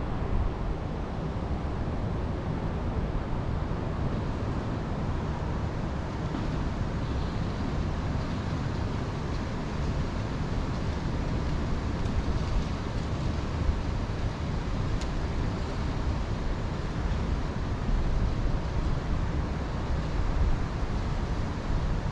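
Steady wind blowing through forest trees, with wind rumbling on the microphone.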